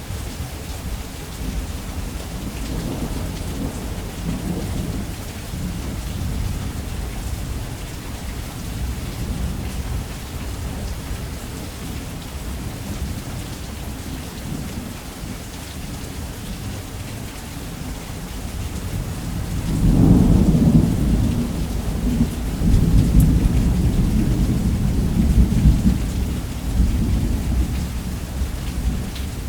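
Steady heavy rain with thunder rumbling low in the background. About two-thirds of the way through, a loud, long roll of thunder starts and rumbles on for several seconds.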